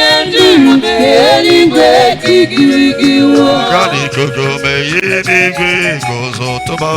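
A voice singing a melodic chant, with long held notes that slide between pitches.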